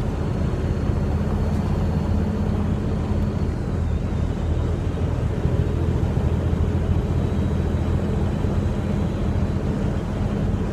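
Freightliner semi truck's diesel engine running with a steady low drone.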